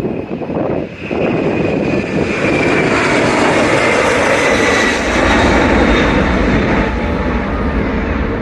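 Boeing 767-300ER's twin jet engines running at takeoff power, a steady jet noise with a high fan whine that slides slightly lower. A deep rumble grows from about halfway through.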